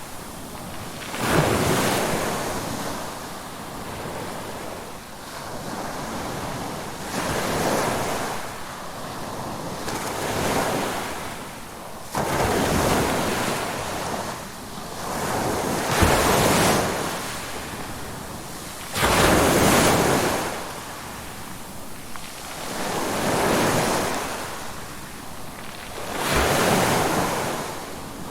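Ocean waves breaking and washing in, one surge swelling and fading every three to four seconds, two of them louder in the middle.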